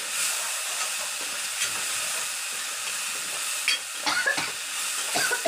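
Tomato masala sizzling in oil in a pan, with a steady hiss. In the second half a metal spoon stirring it scrapes and clinks against the pan a few times.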